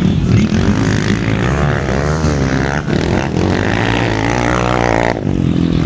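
Motocross motorcycle engines revving hard, the pitch climbing and falling in two long sweeps as the bikes ride the track, and the sound changes abruptly near the end.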